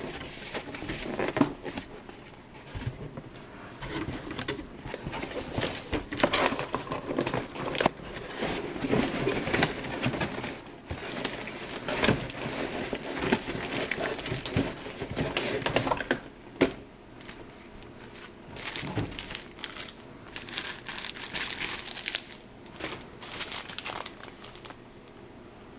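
Plastic packaging being crinkled and torn open by hand, with irregular rustling and handling clicks that thin out over the last third.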